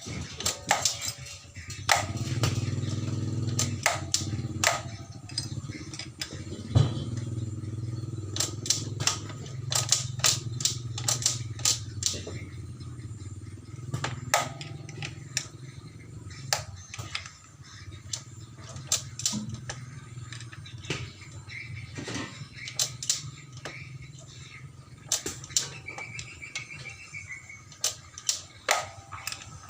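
Motorcycle engine running, with many sharp metallic clicks and knocks, while the clutch adjusting bolt is set to cure a clacking noise on gear changes. The engine hum weakens a little past halfway.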